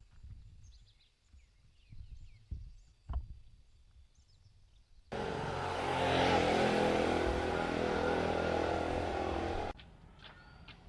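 A motor vehicle's engine running steadily and loudly for about four and a half seconds, starting and stopping abruptly partway through. Before it come faint bird chirps and a few light knocks.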